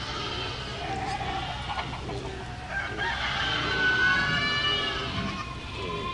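Farmyard animal calls, several overlapping, with the longest and loudest call about three seconds in.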